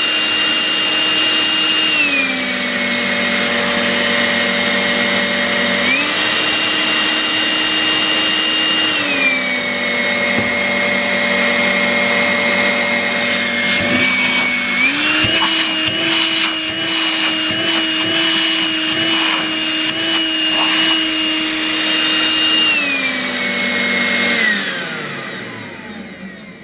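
Makita CL182FD 18V cordless stick vacuum running on its replacement motor-and-fan assembly. The whine steps several times between a higher and a lower power setting, with some short clicks in the middle. Near the end it is switched off and spins down.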